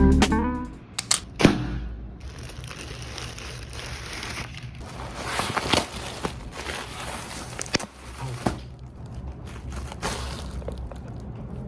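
Crinkling and rustling handling noise with scattered light clicks and knocks, as of objects or packaging being handled.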